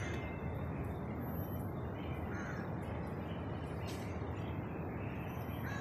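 Steady outdoor background noise with a couple of short, harsh bird calls, one about two and a half seconds in and one near the end.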